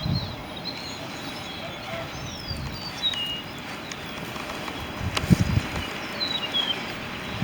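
Steady background noise with a few short, high chirps and a single knock about five seconds in.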